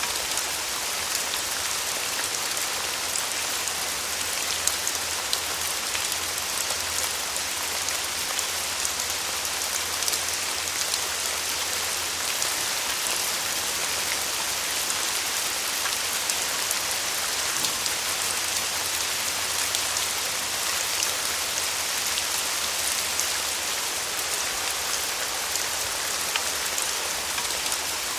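Steady rain falling, a dense even hiss of drops with many small individual drop ticks on a surface.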